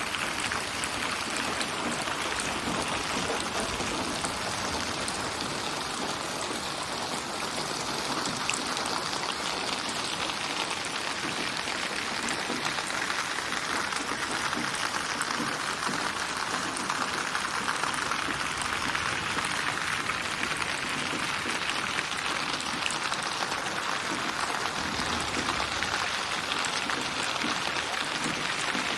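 Steady, even rainfall: a dense patter of raindrops built up from many rain recordings and panned around the listener as 8D binaural surround. Its focus shifts slowly as it moves.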